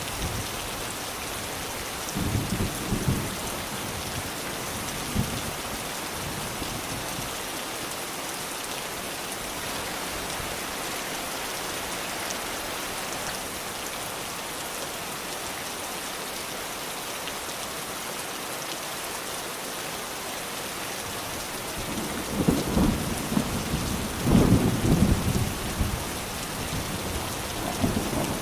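Steady rain falling, an even hiss throughout, with thunder: a brief low rumble about two seconds in and a longer, louder rumble near the end.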